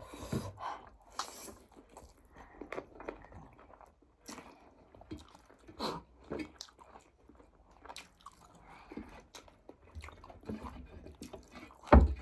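Close-up chewing and mouth sounds of people eating a meal of rice and mutton by hand: irregular soft smacks and clicks. There is one sharp, louder knock near the end.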